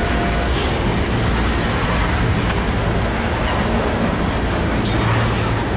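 Freight train of covered hopper cars rolling past close by: a steady rumble and rush of steel wheels on rail, with a short sharp clank about five seconds in.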